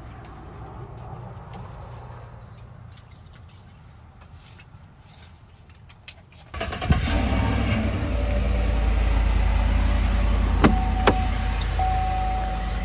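A vehicle engine starts about six seconds in and keeps running, loud and low, after a quieter low hum. Two sharp clicks and a short steady tone come near the end.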